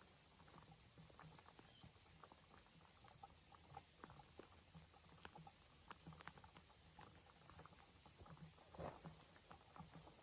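Near silence, with faint, irregular light ticks and crackles over a low hum.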